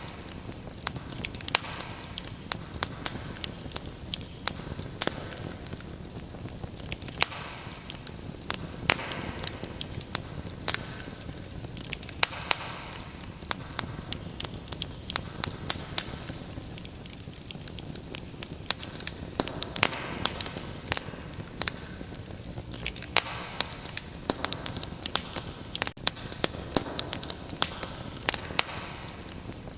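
Wood fire crackling: a steady low hiss of burning with frequent sharp pops and snaps scattered throughout.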